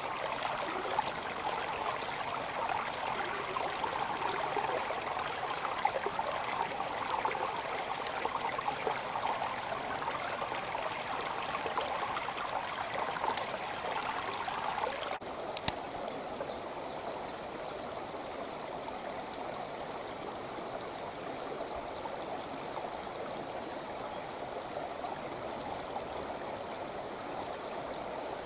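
Creek water flowing and trickling steadily. About halfway through, the sound changes abruptly and becomes a little quieter.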